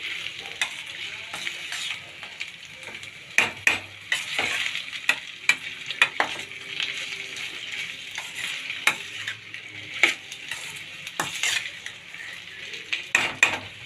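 Chicken pieces sautéing in a pan with onions and spices, sizzling steadily while a spatula stirs them, with irregular scrapes and knocks of the spatula against the pan.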